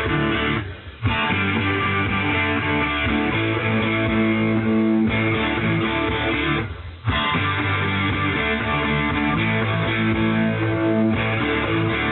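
Rock band playing an instrumental passage led by strummed electric guitar with bass, cutting out for a split second twice, about a second in and about seven seconds in, then coming straight back in.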